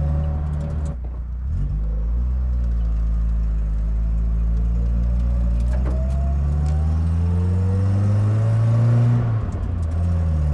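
1977 Toyota Celica RA28's engine driving the car from inside the cabin. The revs dip about a second in, like a gear change, then the engine note climbs steadily for about eight seconds before the revs drop near the end.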